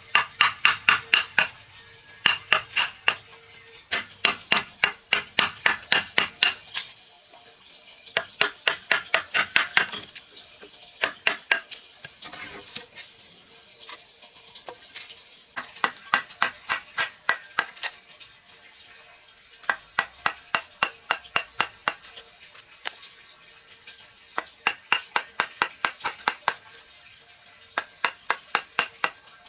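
A knife chopping rapidly on a wooden cutting board, about five even strikes a second, in runs of two to three seconds with short pauses between. A faint steady high insect-like tone runs underneath.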